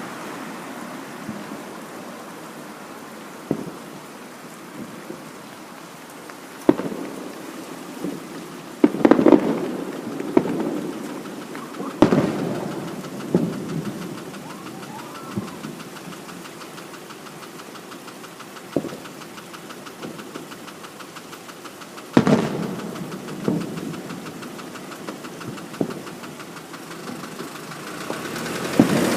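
Fireworks shells bursting overhead, a dozen or so booms at uneven intervals, each with a short echoing rumble. The loudest come about nine, twelve and twenty-two seconds in. A steady rushing noise runs underneath.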